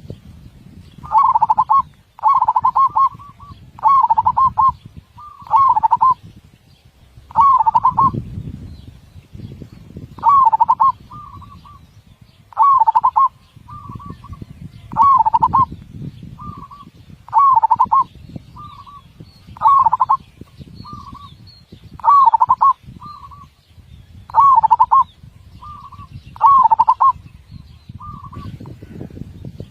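Zebra dove (perkutut) singing: phrases of quick, rolling coos repeated about every two to two and a half seconds, with a short single coo before most phrases. A low rumbling noise runs underneath.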